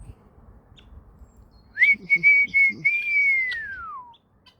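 A clear whistled call: a quick rise into a few short notes at one pitch, then a long held note that slides down in pitch and stops.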